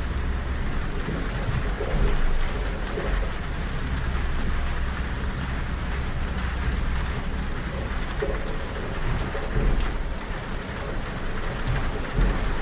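Steady rain on a train carriage window over the low, steady rumble of the moving train, with a few heavier low thumps from the wheels on the rails.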